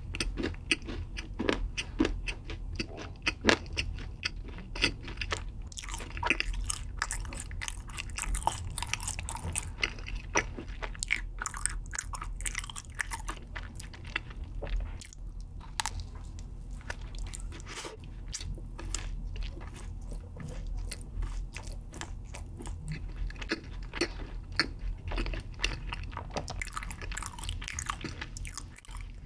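Close-miked chewing and crunching of a crunchy chocolate-coated snack, with crisp crackles from the bites and chewing throughout, thickest near the start and again near the end.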